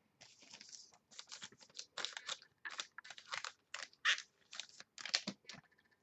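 Trading card packs being opened and handled: foil wrappers crinkling and tearing and cards shuffling, heard as an irregular string of short scratchy crackles.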